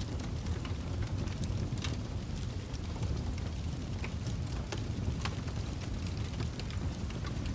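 Wood fire crackling in a fireplace: irregular sharp pops and snaps, a few each second, over a steady low rumble of burning.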